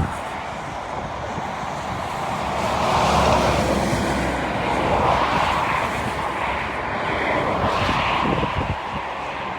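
Airliner's jet engines, a broad steady roar that swells about three seconds in and stays strong, with a faint whine on top.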